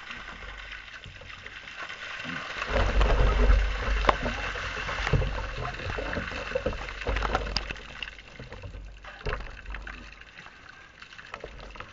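Ice-cold water gushing and splashing out of a tipped kayak onto a person, loudest from about three to eight seconds in, then tailing off into trickles and drips.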